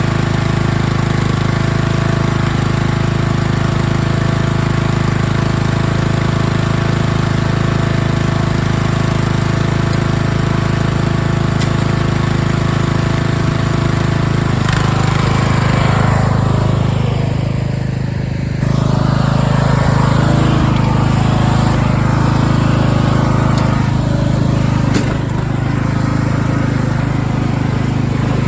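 Craftsman LT1000 riding lawn mower's engine running steadily. About two-thirds of the way through its sound shifts, with a brief dip followed by a sudden step up in loudness.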